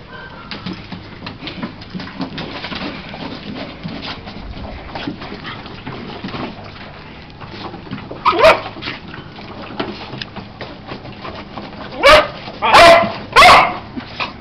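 A dog barking: a single bark about eight seconds in, then three loud barks in quick succession near the end.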